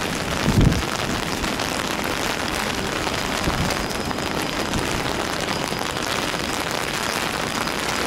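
Heavy rain falling steadily, a dense even hiss. A brief low thump comes about half a second in, and a fainter one around three and a half seconds.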